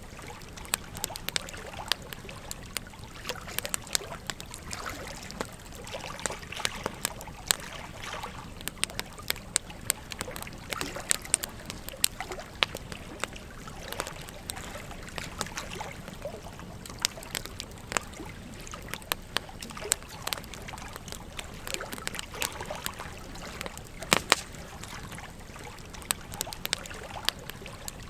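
Wood fire crackling, with frequent sharp snaps and pops at irregular moments, over the steady babble of a gentle stream.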